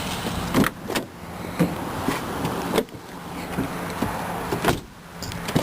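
Knocks and clicks from a car's doors and interior being handled, about seven sharp ones spread over a few seconds, over a steady low hum.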